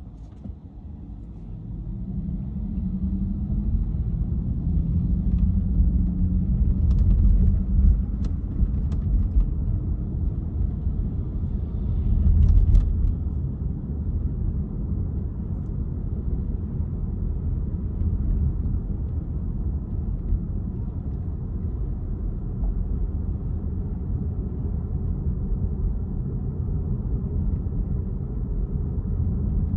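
Car driving on city streets: a steady low rumble of engine and tyre noise, which grows louder over the first few seconds and swells briefly around the middle. A few faint clicks sound along the way.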